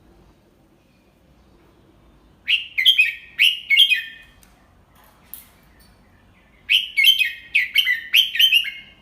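Red-whiskered bulbul singing: two short phrases of quick, clear warbling notes, the second about three seconds after the first.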